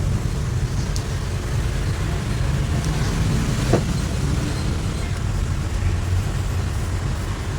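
Steady low rumble of background road traffic, with a few faint clicks, the clearest about halfway through.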